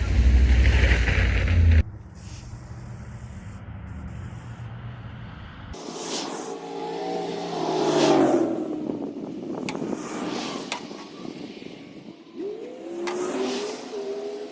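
Briggs & Stratton V-twin engine of a hot-rodded riding mower running loud and deep close up. After a sudden cut it is fainter, then revs and passes by twice, its pitch rising and falling.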